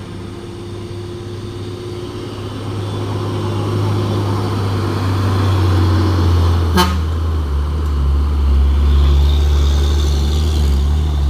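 Heavy truck engine labouring up a steep climb, a deep steady drone that grows louder as it approaches. A short horn toot sounds about seven seconds in.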